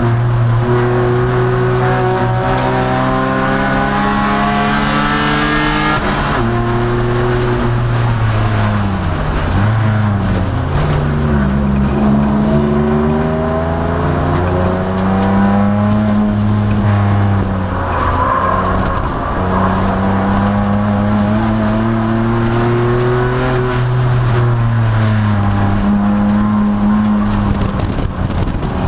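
2002 Nissan Maxima's 3.5-litre V6 race engine at full load on track, revs climbing steadily for about six seconds, then falling sharply. The revs rise again and level off, then dip and climb twice more, with another fall near the end.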